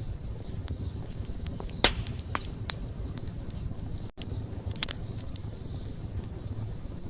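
Campfire burning with a low steady rumble and scattered sharp crackles and pops of the burning wood; the loudest pop comes about two seconds in. The sound cuts out for a split second about four seconds in.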